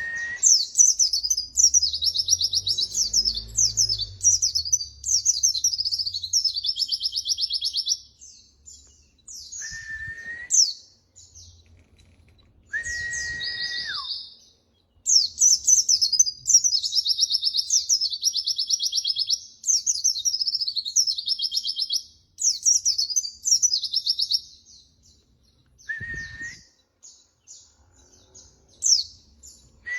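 White-eye (pleci) singing: long, fast, chattering warbles and trills, with pauses between phrases. A short, steady, lower whistled note sounds now and then, one of them sliding down at its end.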